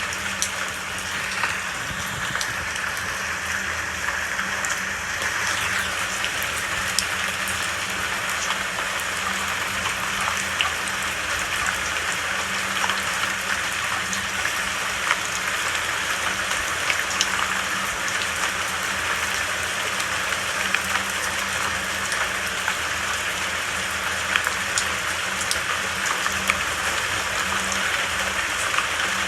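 Steady rain falling, with scattered individual drops ticking sharply over an even hiss.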